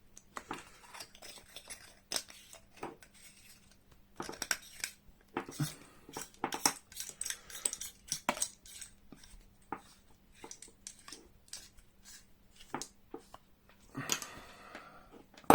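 Irregular small clicks, taps and light clatter from handling the flashlight as the battery is put in and the parts are fitted together.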